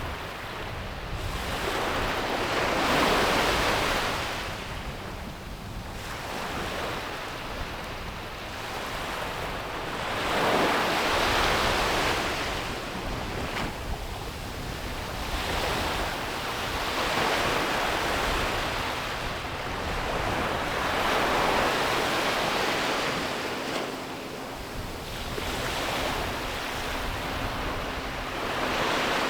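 Ocean waves breaking and washing up a beach, rising and falling in slow surges every few seconds.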